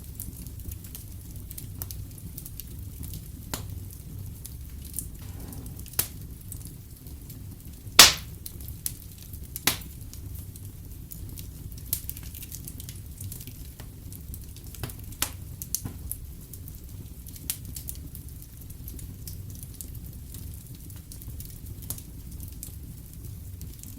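Wood fire in a fireplace crackling, with a steady low rumble and scattered sharp pops, the loudest about eight seconds in.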